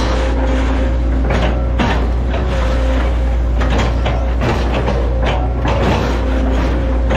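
Hitachi ZX110 MF excavator's diesel engine running steadily with a hydraulic whine, while irregular sharp cracks and crunches come several times a second apart.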